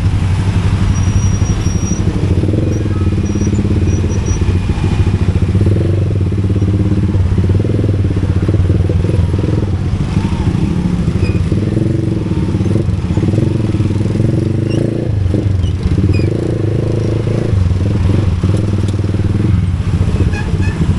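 Motorcycle engine running steadily at low speed in traffic, its note rising and falling a little every few seconds.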